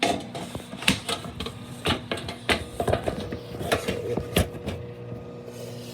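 Microwave oven running with a steady hum, while small hard objects are handled on the counter: a quick irregular series of clicks and knocks that thins out near the end.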